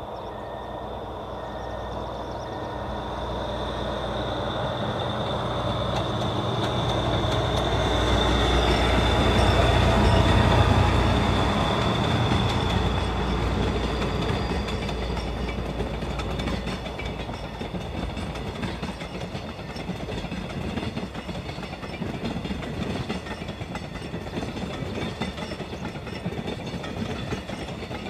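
A DF200 "Red Bear" diesel-electric locomotive approaches and passes at the head of a freight train, its engine growing louder to a peak about ten seconds in. The freight wagons then roll past with a steady rumble of wheels on the rails. A short repeated beeping sounds in the first few seconds.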